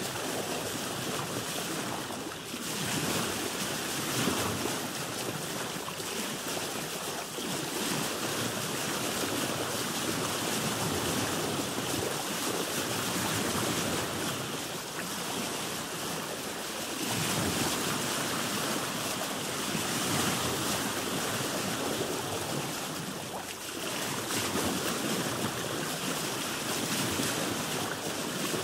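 Sea water washing and splashing against a boat's hull, swelling and easing every few seconds, with wind.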